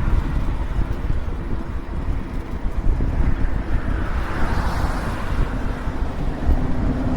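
Wind buffeting the microphone of an action camera on a moving e-bike, a steady low rumble.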